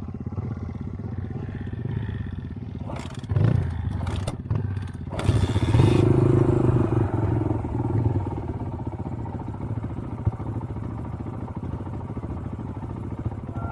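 Motorcycle engine running, revved hard about five seconds in and then easing back, with a few short clattering noises just before.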